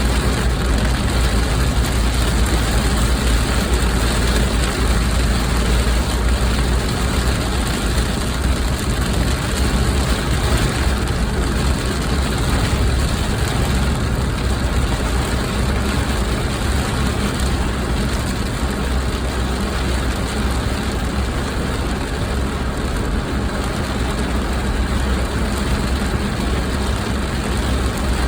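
Steady rumble and noise of a car heard from inside the cabin, unchanging throughout.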